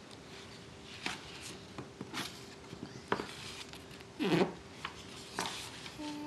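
Paper rustling and light knocks from a children's picture book being handled, in a series of short, sharp strokes over a faint steady hum.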